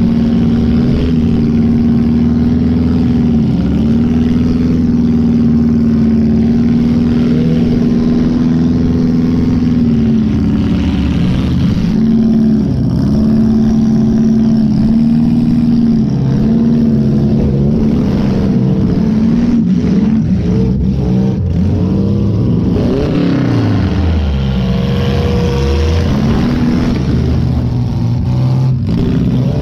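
Chevy Lumina's 2.5 L Iron Duke four-cylinder engine running hard, heard from inside the cabin, its revs holding and then dipping and climbing repeatedly, with a deeper drop and climb in the later part.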